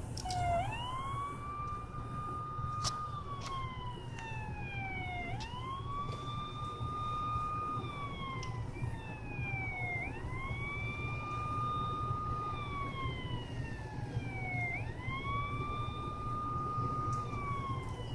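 Siren wailing in slow cycles, four times over: each cycle sweeps quickly up to a high note, holds it, then falls slowly.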